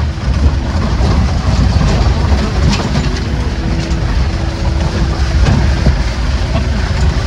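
Jeep engine running while the vehicle rattles and jolts over a rough, rocky track, with a continuous low rumble and constant irregular clattering.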